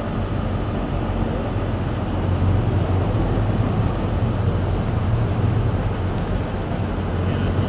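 John Deere loader's diesel engine running steadily with a low hum that swells a little now and then as the operator meters the boom and bucket hydraulics.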